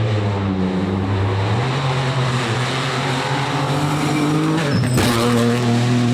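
Rally car engine running hard, its note stepping up sharply about one and a half seconds in and then climbing. A short sharp crack comes about five seconds in, after which the engine note jumps up again and keeps rising.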